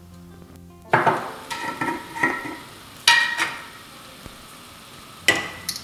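A metal spoon stirring spice paste in a cooking pot on the heat, with three ringing clinks of the spoon against the pot about one, three and five seconds in, over a faint sizzle of the frying masala.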